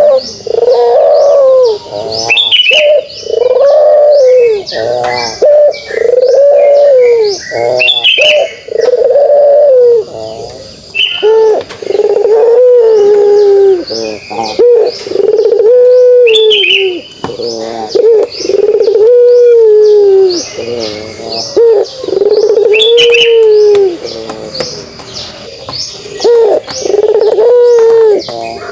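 Puter pelung, a domestic ringneck dove, cooing over and over in its drawn-out 'kugeruk' call, each coo lasting a second or so with short gaps between. Short higher chirps come in now and then.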